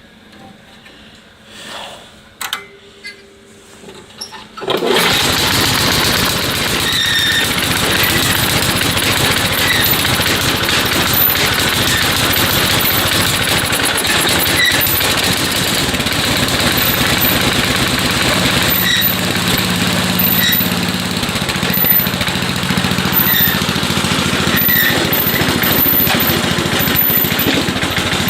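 A John Deere snowblower's small gasoline engine starting about five seconds in, after a few short knocks, then running steadily. The engine has just had fresh oil, a new spark plug and new belts.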